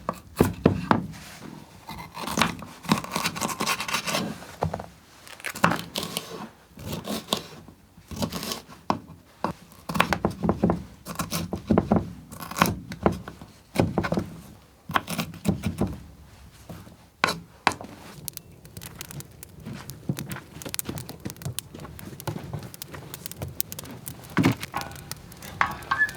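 Irregular knocks, scrapes and rustling of things being handled, with sharp clicks scattered throughout.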